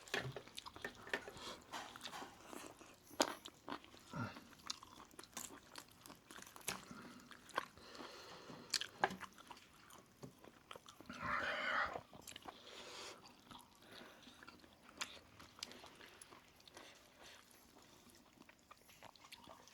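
Chewing and biting roast chicken close to the microphone: irregular crunches and wet mouth clicks, with a short voice-like murmur about eleven seconds in.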